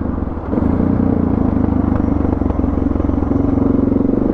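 Suzuki DR650 single-cylinder engine running under way, the throttle opening about half a second in and the engine then pulling steadily.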